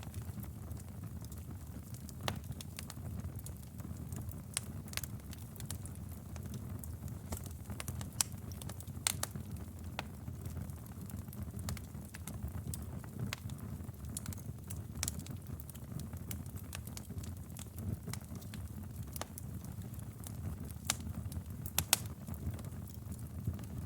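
Wood fire burning in a fireplace: a low, steady rumble of flames with irregular sharp crackles and pops, a few louder pops scattered through.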